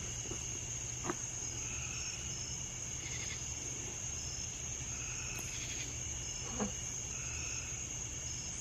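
Night insect chorus of crickets: a steady high-pitched trill with shorter chirps repeating about once a second, over a low steady rumble. There are two faint knocks, one about a second in and one near the end.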